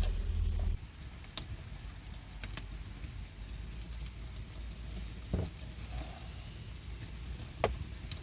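A low rumble that cuts off under a second in, then a handful of scattered sharp clicks and snaps over a quiet background.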